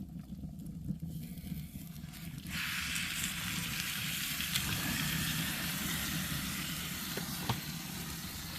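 Fat sizzling as it goes onto the burning fire in a wood-burning fireplace, starting about two and a half seconds in and holding steady, over a low rumble from the fire. A couple of light knocks come near the end.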